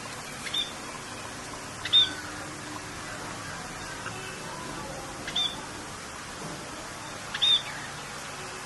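A bird calling in short, sharp arching chirps, four of them at irregular intervals, over a steady hiss of rain.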